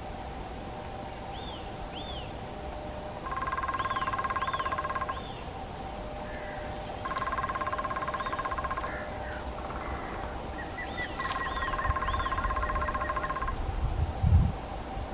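Lesser spotted woodpecker drumming in the distance: three even, very fast drum rolls of about two seconds each, with thin high chirps from small birds in between. A few low knocks near the end, the loudest one sharp, from the black woodpecker working rotting wood.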